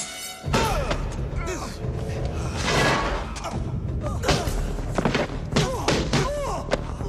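Film score music with several heavy thuds and slams, like fight impacts, landing over it.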